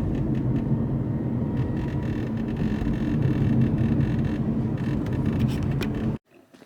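Steady low rumble of a motor vehicle running, which cuts off abruptly about six seconds in.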